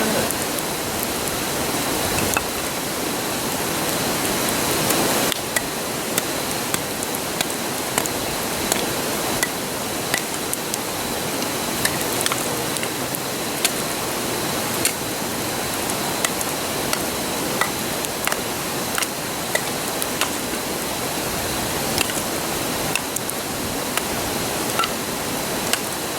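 Wood campfire crackling, with irregular sharp pops about once or twice a second, over the steady rush of a nearby river. The rush eases a little about five seconds in.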